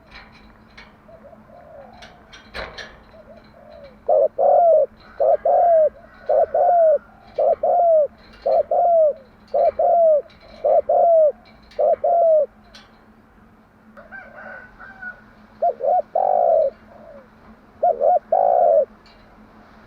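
Spotted dove cooing: a run of about eight low coos, roughly one a second, beginning about four seconds in, then a few more after a short pause. Faint chirps of small birds can be heard behind it.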